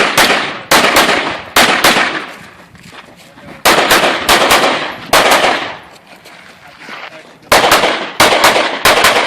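Rapid pistol fire from an Open-division race gun, shots mostly in quick pairs a fraction of a second apart. They come in strings with short pauses between, roughly twenty shots in all.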